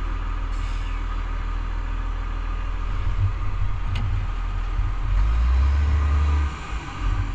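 Heavy truck engine running with a steady low rumble that swells louder about five seconds in and drops away briefly near the end. A single sharp click comes about four seconds in.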